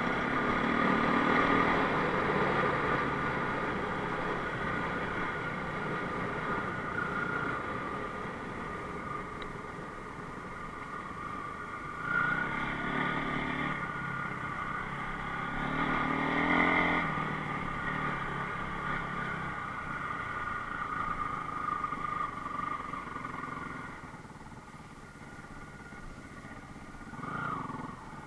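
Enduro motorcycle engine running, revving up in swells about twelve seconds in, around seventeen seconds, and briefly near the end, and easing off in between.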